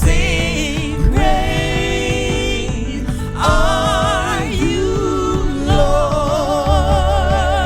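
Gospel worship song: singers hold long notes with vibrato over the band's accompaniment, moving to a new pitch every second or two.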